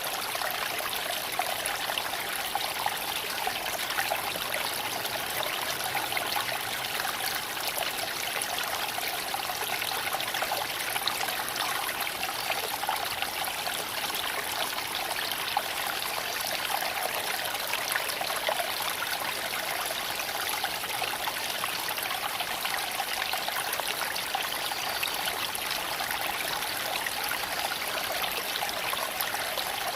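Small creek flowing and trickling over stones, a steady even rush of water.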